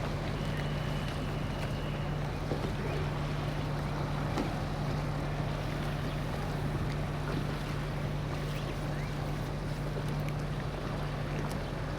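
Ferry's engine running with a steady low drone, under a constant wash of wind and water noise.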